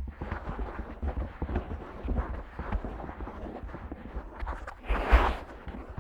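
Fingertips gently scratching the ear of a Neumann KU100 dummy-head binaural microphone: a close, continuous scratchy crackle with soft low thumps. The scratching swells louder about five seconds in.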